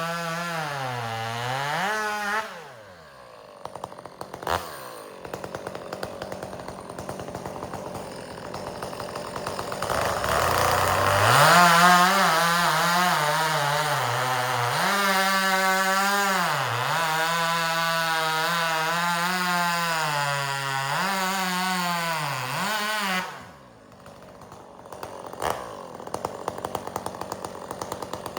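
Chainsaw bucking firewood: the engine revs high, its pitch dipping and recovering under the load of the cut, then drops to idle about two seconds in. It revs back up for a long cut from about ten seconds to twenty-three seconds, idles again, and starts revving up near the end.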